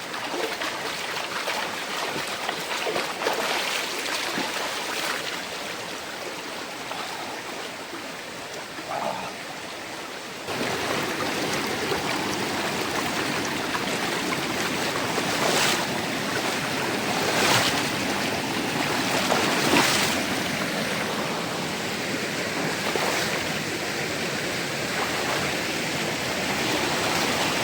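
Rushing river water flowing over rocks, a steady watery noise that gets suddenly louder about ten seconds in. A few short sharp sounds stand out over it in the second half.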